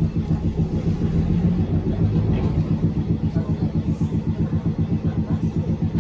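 Manyosen streetcar giving a steady low rumble that pulses evenly, about five times a second.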